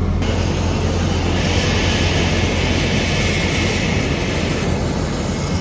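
Jet aircraft noise on an airport apron: a steady low rumble under a high hiss that starts suddenly and fades near the end.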